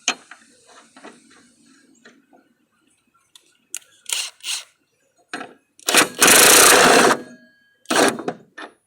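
Metal tools and parts clinking and knocking while a mower deck spindle is worked on, then a power tool runs in one loud burst of about a second about six seconds in, with a shorter knock-filled burst near the end.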